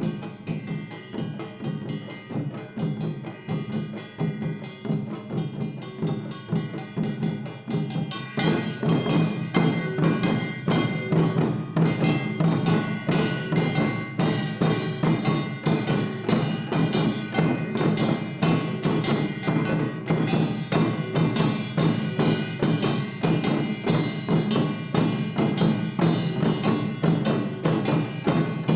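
Traditional Korean percussion ensemble playing a fast, steady rhythm on drums, with a brighter, louder section coming in about eight seconds in.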